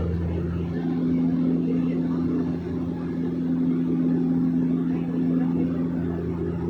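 Small private airplane's engine and propeller droning steadily, heard inside the cabin, with a constant low hum that holds one pitch.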